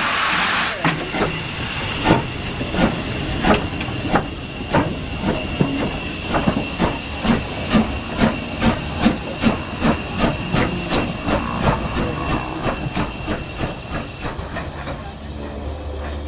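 Steam locomotive pulling away: a loud hiss of steam cuts off under a second in, then the exhaust chuffs start slow and quicken to about three a second, fading as the engine draws away. A faint steady high tone runs under most of the chuffs.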